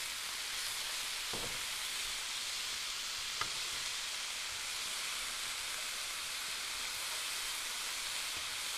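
Pork and vegetables sizzling steadily in an electric skillet as they are stir-fried and turned with tongs, with a couple of faint clicks.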